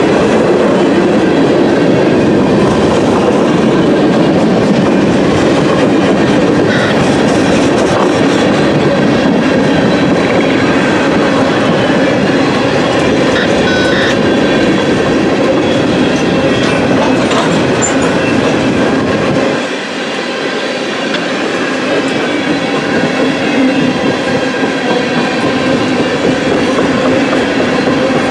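A freight train of tank cars rolling past close by: a steady, loud rumble and clatter of steel wheels on the rails.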